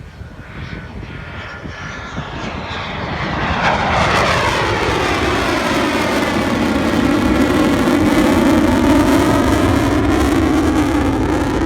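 Panavia Tornado's twin RB199 turbofan engines growing louder as the jet approaches, then a loud jet roar with a pitch that sweeps downward as it passes about four seconds in, staying loud afterwards.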